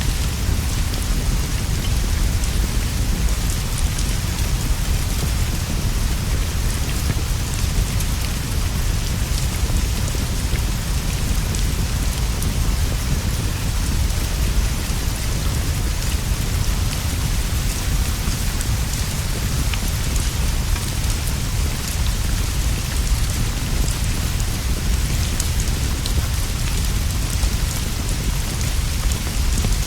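Steady rain falling on leaves and a straw roof, an even unbroken hiss over a constant deep rumble, with faint scattered ticks of drops.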